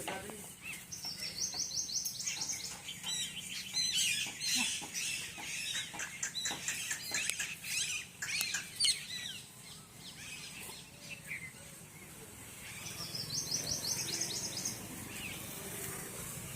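Birds chirping and calling, with a fast trill of rapid high notes about a second in and again near the end.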